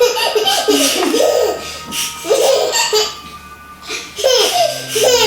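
A young child laughing and giggling in repeated short bursts, with a brief lull about three seconds in.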